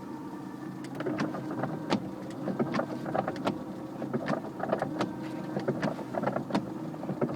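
The 1.3-litre petrol engine of a Skoda Felicia pickup running with a steady hum. From about a second in, irregular clicks and rattles are heard over it.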